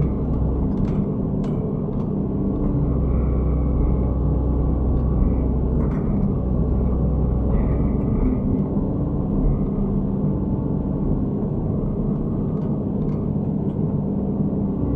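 Excavator diesel engine running steadily with a low drone, with a few short clicks and knocks now and then.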